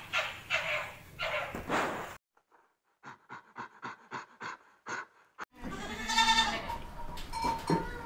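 A series of short pitched animal calls, then after a brief gap a quick run of short pulses, about three a second. From a little past halfway, goats are bleating: one loud, long, wavering bleat, followed by further overlapping bleats.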